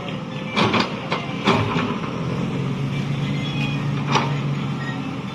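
A vehicle engine running steadily at low speed, with several sharp knocks or clanks about half a second to a second and a half in and another about four seconds in.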